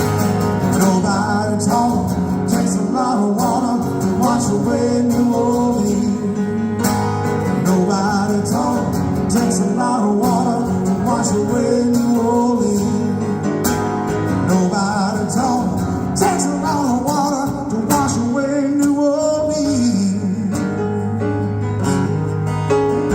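Live band playing an instrumental passage of a country-rock song, led by guitar, at a steady level.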